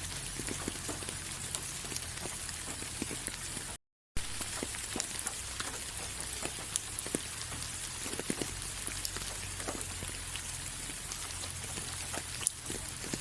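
Steady rain falling, with many separate drops ticking on a surface over the hiss. About four seconds in the sound cuts out completely for a moment, then resumes.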